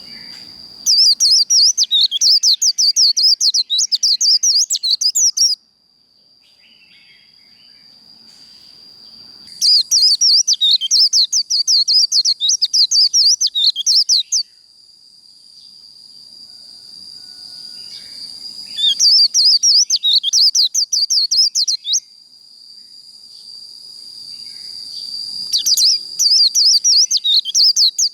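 White-eye (vành khuyên) giving its rapid twittering 'líu' fighting song in four bursts of a few seconds each, with pauses between. A steady high-pitched whine runs underneath throughout.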